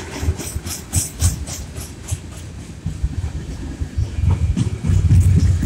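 Freight cars of a passing CN freight train rolling by: a steady rumble of steel wheels on the rails with clicking and rattling, a run of sharp high clicks about a second in, and the rumble growing louder about four seconds in.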